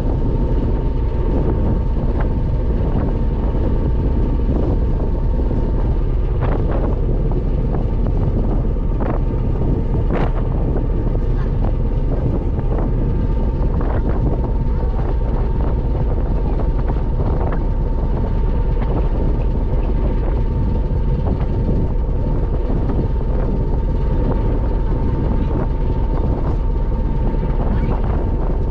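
Passenger ferry under way: the steady low drone of its engine with a thin steady hum above it, and wind buffeting the microphone.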